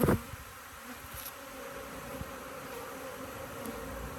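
Steady buzzing of many agitated honeybees swarming around an opened hive, a defensive colony that keeps attacking. A short loud thump right at the start.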